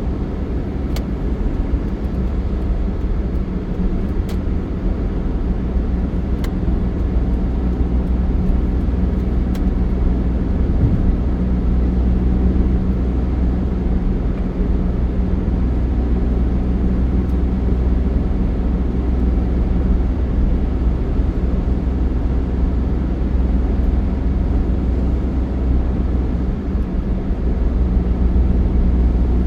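A motor vehicle running steadily: a continuous low engine and road drone, with a few faint clicks now and then.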